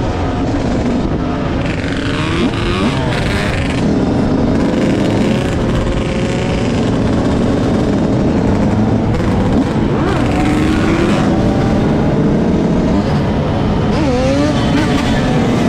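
Motor vehicle engines running steadily, with their pitch rising and falling at times.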